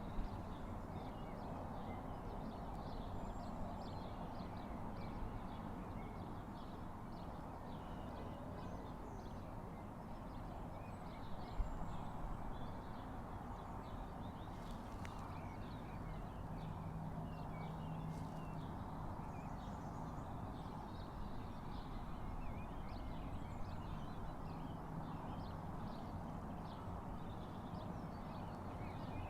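Birds chirping and singing throughout, over a steady low background rumble; a faint low hum rises and fades in the middle.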